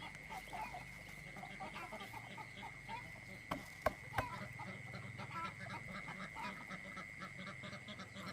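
Farmyard poultry calling: many short, scattered honks and clucks from ducks, geese or chickens, over a steady high-pitched tone. A few sharp knocks come about three and a half to four seconds in.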